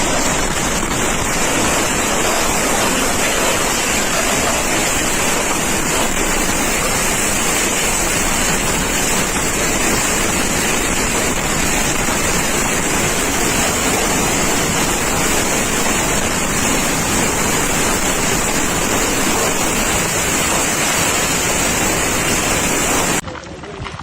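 Loud, steady rushing of turbulent water, cutting off abruptly about a second before the end.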